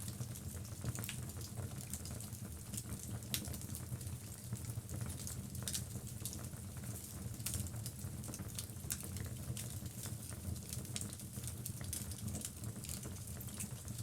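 Wood fire crackling in a fireplace: burning logs give off frequent sharp, irregular pops and snaps over a steady low rumble of flame.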